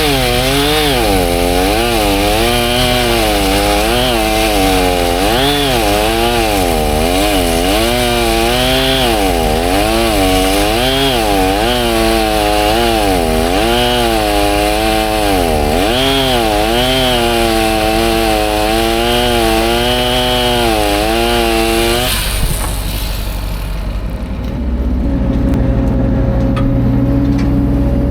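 Chainsaw running while cutting wood, its engine pitch rising and falling about once a second. It stops near the end, and a lower steady engine hum takes over.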